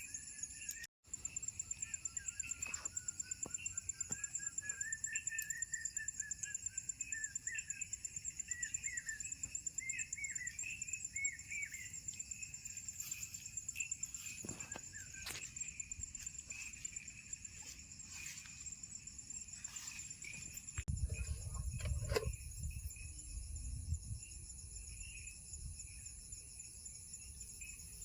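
Crickets and other night insects trilling steadily, with a run of short chirping calls from another animal through the first half. A low rumble comes in about three-quarters of the way through, and the sound drops out briefly about a second in.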